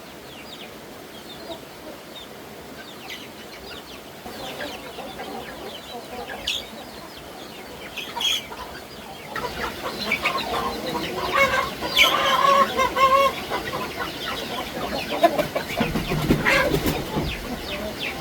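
Chickens clucking: scattered short calls at first, growing louder and busier from about ten seconds in.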